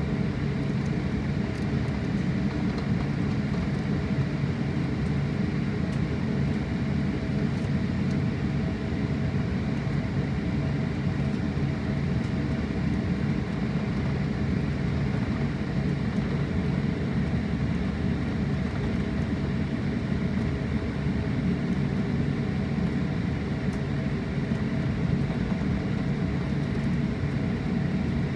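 Steady cabin noise inside a jet airliner: the engines running with the air-conditioning hum, a constant low drone and a fainter steady higher tone, unchanging throughout.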